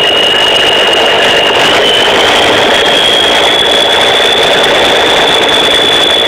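Cummins N14 inline-six diesel in a Ford L9000 truck running, with its turbocharger whistling: a loud, high, steady whistle over the engine noise that creeps slightly up in pitch.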